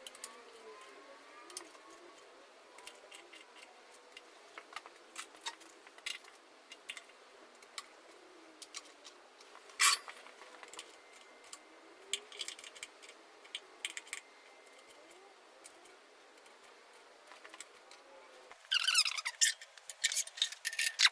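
Scattered metallic clicks and clinks of hand tools and bolts as the oil pan is bolted onto a flathead engine block. There is a sharper knock about ten seconds in and a quick run of clatter near the end.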